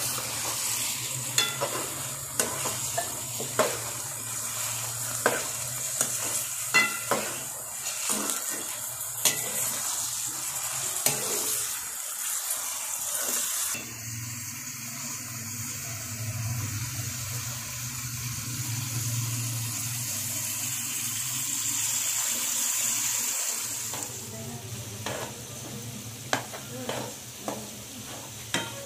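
Liver pieces sizzling in hot oil in a wok, stirred with a metal ladle that clinks and scrapes against the pan many times. Near the end, chopped tomatoes sizzle in a frying pan under the ladle.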